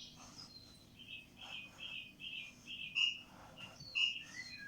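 A bird chirping and twittering in a quick run of short, high calls.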